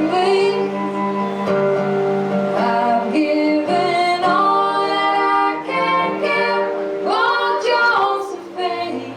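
Women's voices singing long held notes in harmony over acoustic string instruments, with plucked guitar, in a live folk song.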